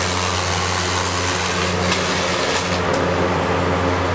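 Five-bladed box fan running on the lowest of its three speeds: a steady rush of air over a constant low hum.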